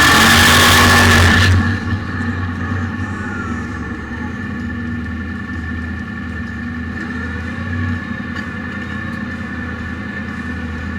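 Twin-turbo LS V8 of a drag-race BMW E46 running loud. About a second and a half in, the noise drops off suddenly to a quieter, steady engine sound.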